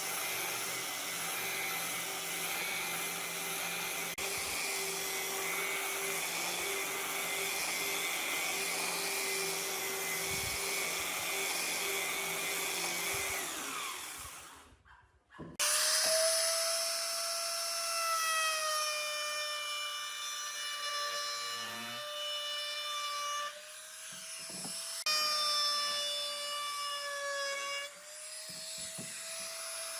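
Electric woodworking power tools working wood. A steady noisy tool runs for about the first half. After a brief break in the sound, a different tool takes over with a steady whine that wavers slightly in pitch.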